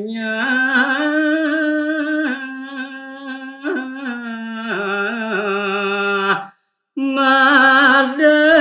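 A solo voice singing a Balinese geguritan verse in the pupuh Sinom melody, unaccompanied, with long held notes and slow ornamented turns. The singing breaks off about six and a half seconds in, then resumes on a new phrase.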